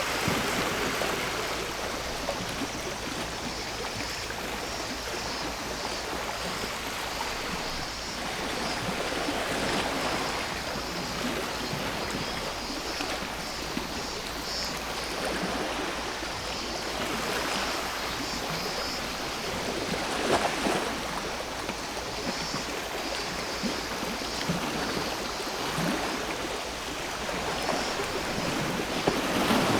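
Sea waves washing onto the shore, the wash swelling every five seconds or so, over a steady high buzz of cicadas.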